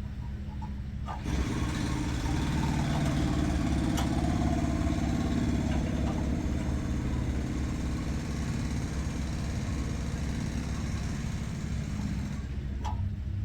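A motor vehicle's engine running with a steady low hum, joined about a second in by a loud rushing noise that holds for roughly ten seconds and eases off near the end.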